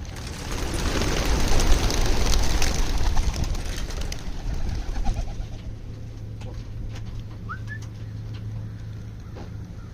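A flock of racing pigeons bursting out of their transport crates at release, a rush of many wingbeats. It swells over the first couple of seconds and dies away about five seconds in. Afterwards a low steady hum remains, with a short bird chirp near the end.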